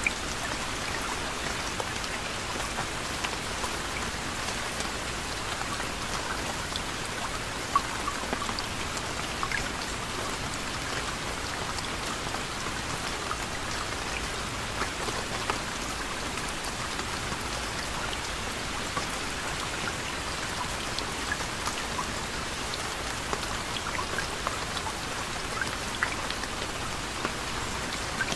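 Steady gentle rain: an even hiss with many individual drops pattering and ticking on a surface.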